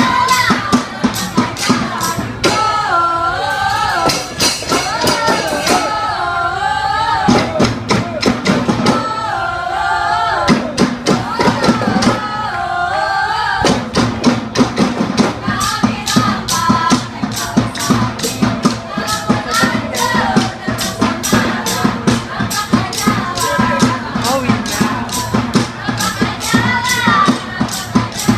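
Rampak percussion ensemble playing a fast, dense rhythm of many drum and jingle strokes, with voices singing a melody over it in stretches through the first half and again near the end.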